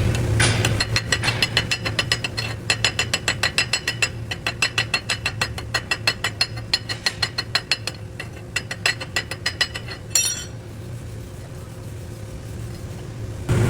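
Rapid, even metal-on-metal tapping at about seven strikes a second, typical of a chipping hammer knocking slag off a 7018 stick weld on a steel test plate. It stops about ten seconds in with a sharper ringing clink.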